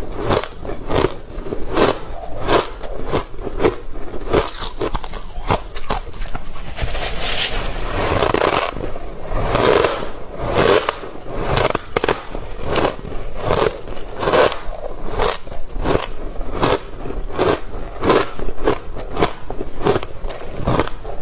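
Close-up crunching of freezer frost being bitten and chewed, a sharp crunch about every half second, with a longer, denser stretch of crunching about a third of the way through.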